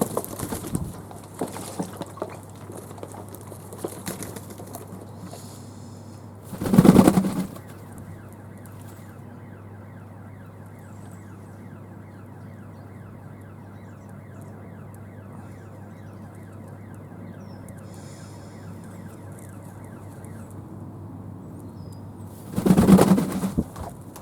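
Fantail doves flapping their wings in an aviary: two short loud bursts, about seven seconds in and again near the end, with a few lighter fluttering knocks early on. A steady low hum runs underneath, and a faint fast ticking runs through the middle stretch.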